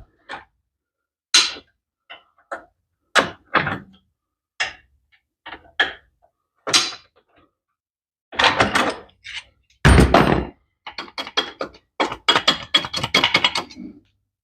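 Metal hand tools knocking and clunking against motorcycle parts in a series of separate sharp knocks, with a run of quick rattling clicks in the last few seconds.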